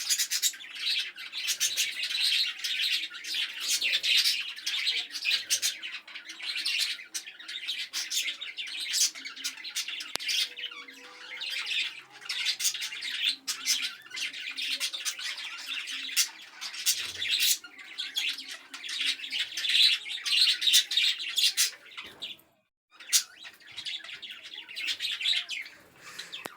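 A colony of budgerigars chattering, many birds at once with a continuous din of chirps and sharp squawks. The sound breaks off briefly about 22 seconds in.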